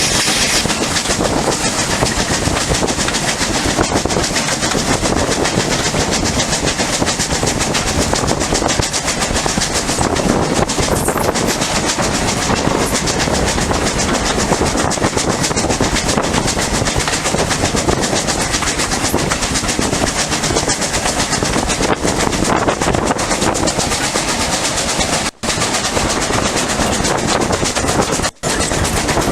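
Train running along the track: a steady, loud rumble with the clickety-clack of wheels over rail joints. The sound cuts out briefly twice near the end.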